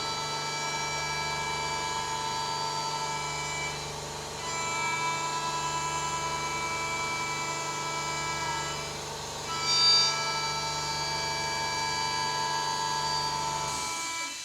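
CNC milling spindle running steadily while cutting aluminium; its whine dips briefly in pitch a few times as the cutter loads up. A sharper high note sounds about ten seconds in, and the spindle sound stops near the end.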